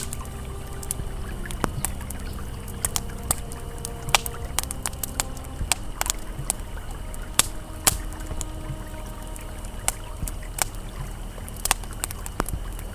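Campfire crackling with frequent sharp pops and snaps over the steady rush of a flowing river. Soft sustained ambient music notes drift in and out underneath.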